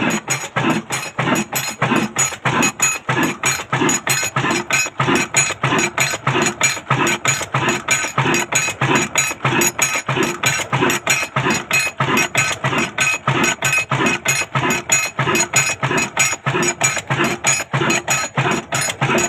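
Old 22 HP Ruston stationary diesel engine running steadily at slow speed, its beats coming evenly several times a second.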